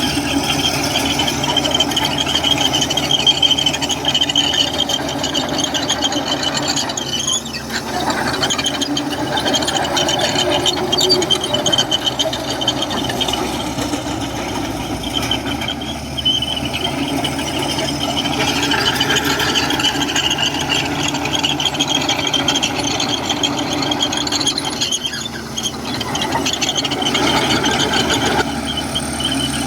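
Komatsu crawler bulldozer working, its diesel engine running steadily under a high, continuous metallic squeal from the steel tracks, with brief dips in level twice.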